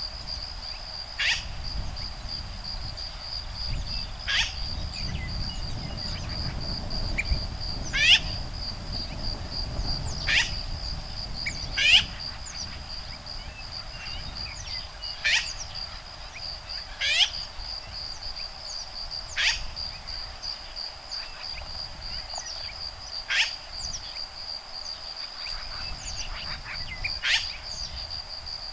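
Woodpeckers calling back and forth with about a dozen sharp, short calls that sweep downward, one every one to three seconds. Behind them runs a steady high trill of insects, and there is a low rumble of breeze.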